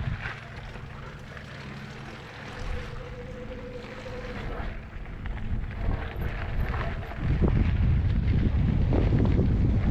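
Wind buffeting the microphone during an e-bike trail ride, a low rumble that gets much louder about seven seconds in.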